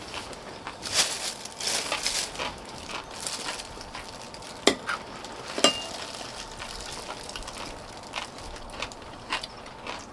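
Close-up eating sounds: wet chewing and slurping of soup and kimchi. There are two sharp clicks about halfway through, like a utensil striking a bowl.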